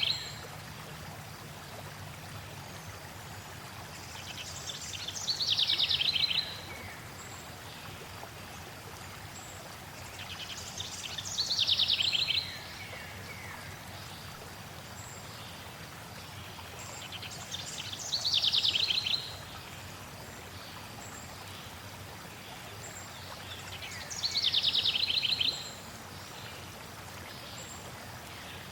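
A songbird repeating the same song about every six seconds, four times: each a quick trill of rapid high notes falling in pitch over about a second and a half, the loudest thing in the mix. Under it a steady rush of flowing water.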